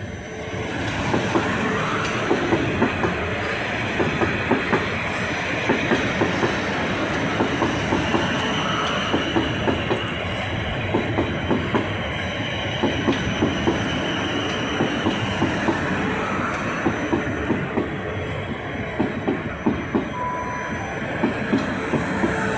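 Train running on the track, its wheels clattering over rail joints in a steady repeated clatter, with a thin high wheel squeal in the middle.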